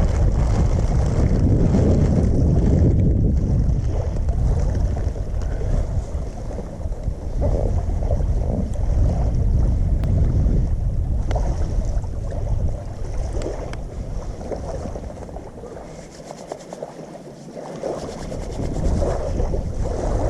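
Wind buffeting the microphone: an uneven low rumble that eases off for a couple of seconds near the end.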